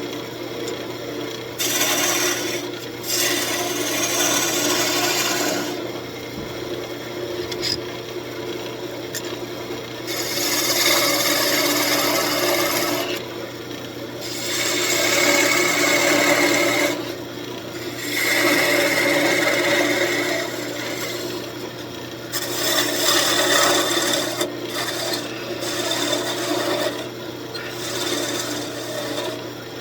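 Wood lathe running with its steady motor hum while a tool is worked against the spinning walnut, giving a rough, rasping scrape that swells in passes of two to four seconds and eases between them.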